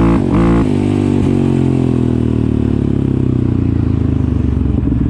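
Quad bike engine blipped twice in quick succession, then holding a steady fast idle that slowly drops and settles into a lumpy, pulsing idle near the end.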